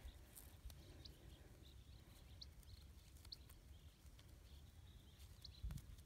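Near silence, with a few faint, short, high bird chirps spread through it and some faint clicks.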